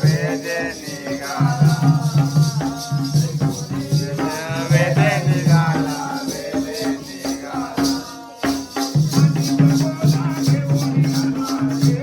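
Jakhadi folk song: a singer's voice over steady held low drone notes and fast, even jingling percussion, with a short lull about two thirds of the way through.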